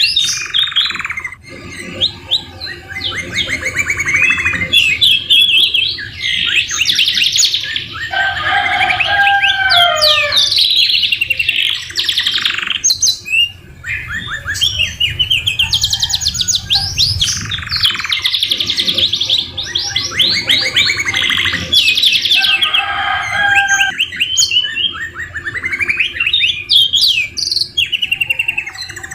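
Domestic canary singing a continuous song of rapid trills and rolls, with lower whistled phrases between them. It is a canary song filled with white-rumped shama (murai batu) phrases.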